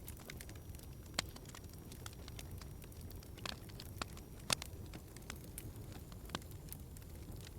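Wood fire crackling in a fireplace: irregular sharp pops and snaps over a low, steady rumble of flames, with the two loudest pops about a second in and past the middle.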